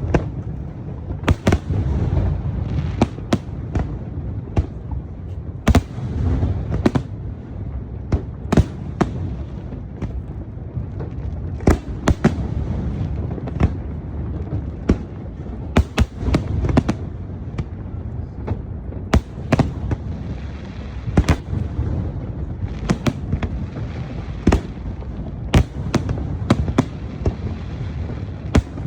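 Aerial fireworks bursting: sharp cracks and bangs at an irregular pace, roughly one to two a second, over a constant low rumble.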